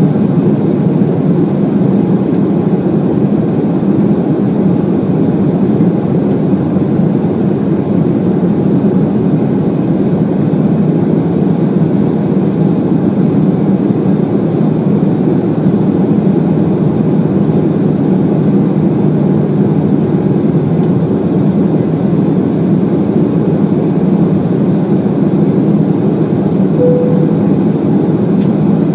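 Steady cabin noise inside an Embraer E190 airliner in flight: the even rumble and rush of its turbofan engines and the airflow over the fuselage. A brief tone sounds near the end.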